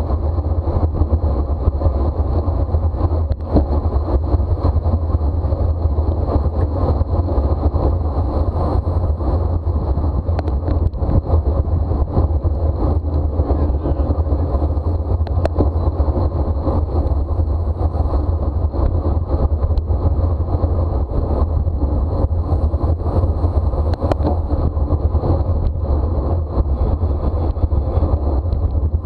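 Wind rushing over the microphone of a camera on a racing bicycle at speed: a steady low roar, with a faint steady high whine above it.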